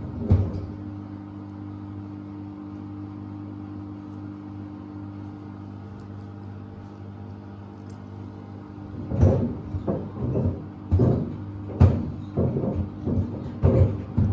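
Samsung WD70T4047CE washer-dryer running a load of sneakers: a steady machine hum. From about nine seconds in, irregular heavy thuds come once or twice a second, as the sneakers tumble and knock against the drum.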